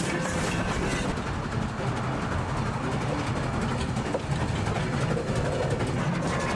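Steam train running, with a steady rumble.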